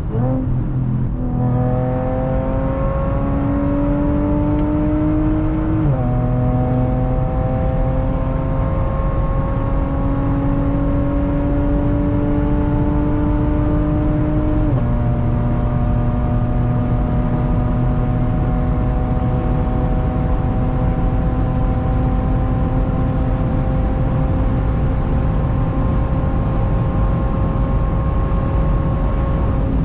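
Straight-piped Audi exhaust under acceleration, its pitch climbing slowly and dropping suddenly at two upshifts, about six and about fifteen seconds in, then pulling steadily in the higher gear.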